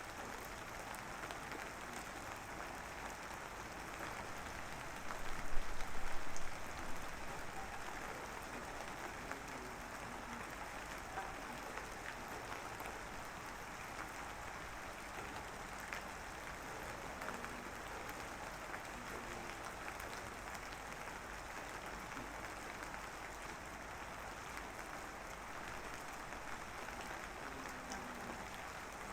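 Steady rain falling, an even hiss of drops. A brief louder noise breaks in about five seconds in and lasts a second or two.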